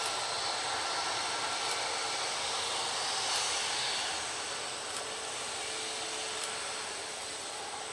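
Jet airliner engines giving a steady rushing roar, easing slightly after about four seconds.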